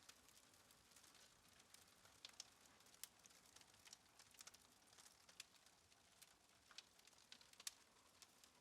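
Faint, irregular small clicks and ticks, a few a second, over quiet room hiss.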